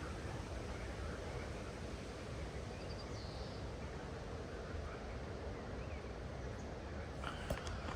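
Steady outdoor ambience by wild water: an even rushing noise, with faint bird calls and a few small clicks near the end.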